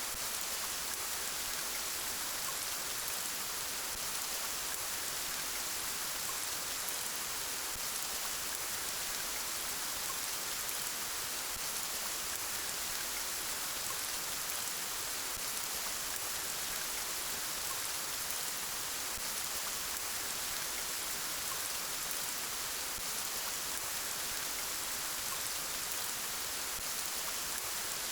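Steady, gentle rain falling, an even hiss of drops without thunder or breaks.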